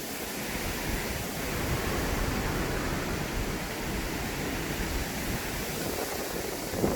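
Strong wind blowing steadily, with a gusty low rumble of wind on the microphone.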